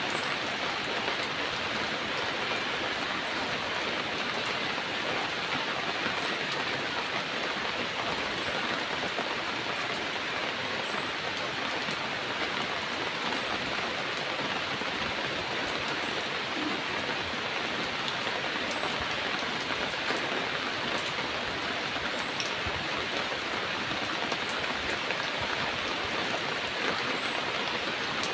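Heavy rain falling steadily, a dense even hiss with scattered sharper drops.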